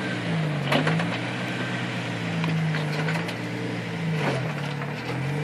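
Jeep Wrangler engine running at low revs, its pitch rising and dipping gently as it crawls over rock, with a few short knocks.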